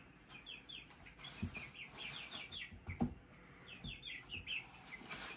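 Young chickens peeping in quick runs of short, falling high notes, with a few soft thumps in between, the sharpest about three seconds in.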